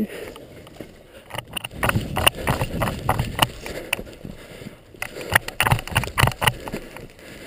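Footsteps on hard ground, short thuds about three or four a second, coming in two runs about a second and a half in and again about five seconds in.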